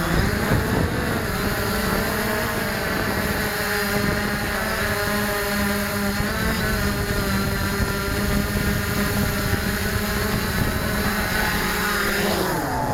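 Multirotor drone's propellers whining steadily, their pitch drifting as the motors change speed. Near the end the pitch falls away as the motors wind down.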